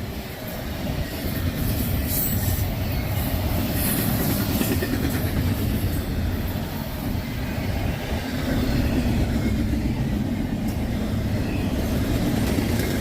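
Freight train cars rolling past on the rails: a steady, loud rumble with wheel clatter and a few brief high screeches from the wheels in the first seconds.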